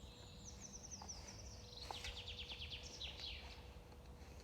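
A small songbird singing a fast run of repeated high notes that steps down in pitch and ends in a short flourish, over faint outdoor background noise.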